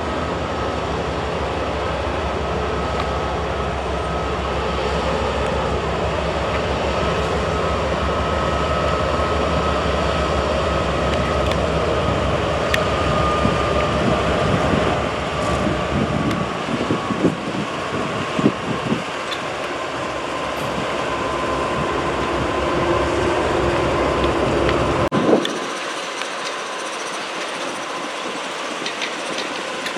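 Norfolk Southern freight train rolling by: a steady rumble of rail cars with clacking over rail joints and a thin wheel squeal. The low rumble drops away abruptly near the end.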